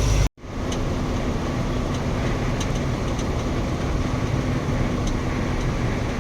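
Truck on the move, heard from inside the cab: steady engine and road noise with a low hum and a few faint ticks, starting abruptly after a brief dropout.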